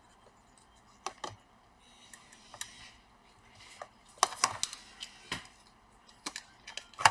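Scattered sharp plastic clicks and light taps from handling an opened laptop's internals while its keyboard cables are plugged back into their connectors. A brief scraping rustle comes about two seconds in, and the loudest cluster of clicks comes a little past the middle.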